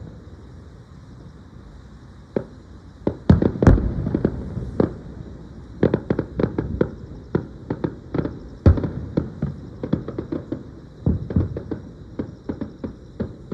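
Aerial fireworks bursting: after a quieter first two seconds, loud booms come about three to four seconds in, followed by dense runs of rapid crackling pops.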